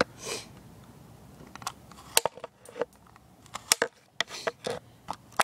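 Irregular sharp clicks and snips of plastic being shaved down with a hand blade, trimming a part so it clears.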